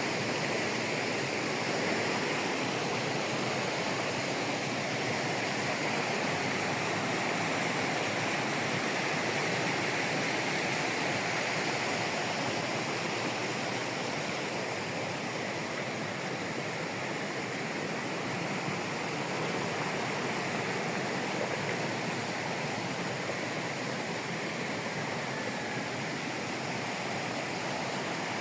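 Rushing water of a Caucasus mountain torrent, a steady roar with no break, easing off slightly about halfway through.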